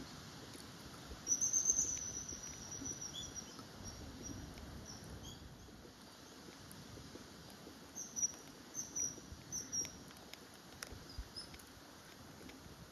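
Common kingfisher calling: a quick run of high, thin piping notes about a second in, and another run of short high notes past the middle.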